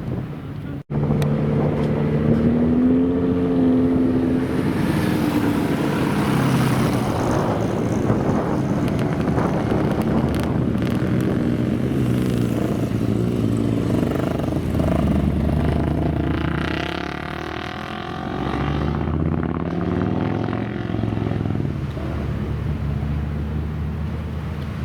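Classic motorcycle engines running and being revved, the pitch climbing and falling as the throttle is opened and closed, with a brief break about a second in.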